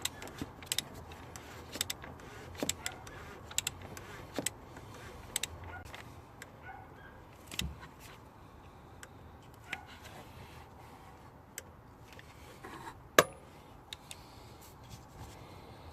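Metal hand tools clicking and clinking while working on the car for an oil change: little clusters of sharp clicks about once a second for the first few seconds, then sparser ones, with one loud clack about 13 seconds in.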